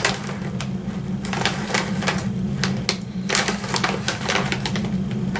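Crunchy cereal being chewed close to the microphone: a run of short, irregular crunches, about two to three a second, over a steady low hum.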